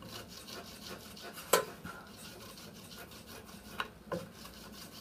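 Rubber belt-sander cleaning stick scrubbed back and forth over Baltic birch plywood to lift off leftover pattern glue, a soft scratchy rubbing in repeated strokes. A sharp knock comes about a second and a half in, and lighter ones near the end.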